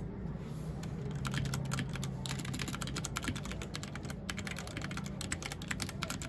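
Mechanical keyboard typing: quick runs of key clicks starting about half a second in, with a brief pause around two seconds, over a low steady hum.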